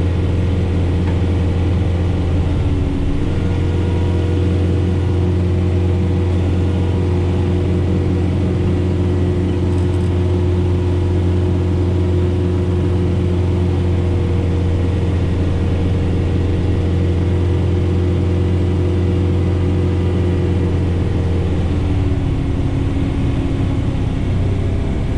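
John Deere 4066R tractor's diesel engine running steadily under load while it drives the snowblower through heavy wet snow. Its pitch rises about three seconds in and sags near the end as the engine is pulled down, then picks back up.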